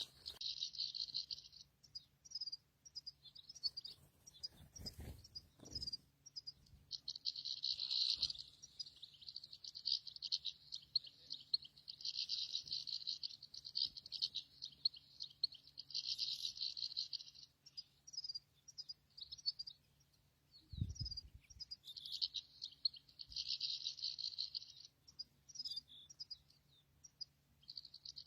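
European goldfinch singing: runs of fast twittering song, each lasting one to three seconds, with short pauses between them.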